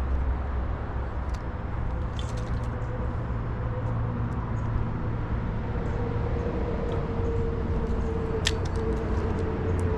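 A motor running steadily with an even hum that strengthens slightly after about six seconds, with a few faint clicks over it.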